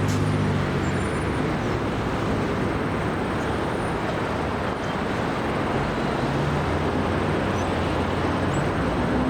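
Jet engines of an Airbus A380-861, four Engine Alliance GP7200 turbofans, running: a steady rush of noise with a low hum underneath.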